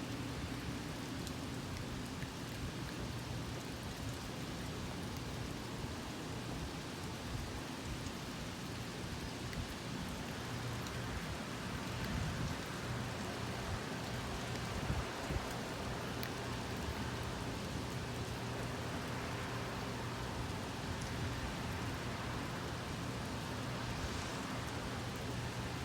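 Steady rain falling, with individual drops ticking close by and a couple of louder taps about halfway through.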